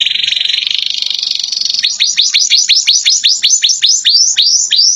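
Domestic canary singing a loud, fast song: a buzzing trill, then from about two seconds in a rapid run of rising, sweeping notes about five a second. It is a song trained with filled-in phrases of the bar-winged prinia (ciblek) and Java sparrow (gelatik).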